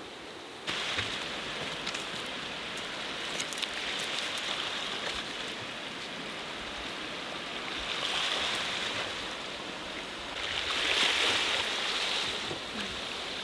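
Small sea waves washing onto the shore: a steady rush that starts abruptly less than a second in, then swells and fades every few seconds.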